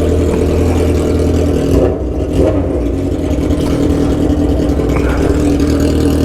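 Motorcycle engine idling steadily, with a brief change in its note about two seconds in.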